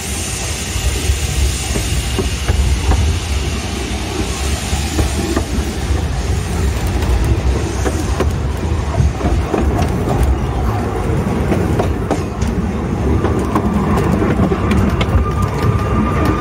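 Narrow-gauge train running along the track, heard from on board: a steady low rumble with the clicks of wheels over rail joints. A faint high wheel squeal comes in near the end as the train takes a curve.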